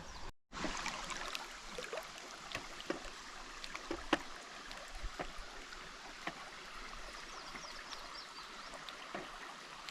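Creek water sloshing and trickling around a person wading, with scattered small splashes and ticks.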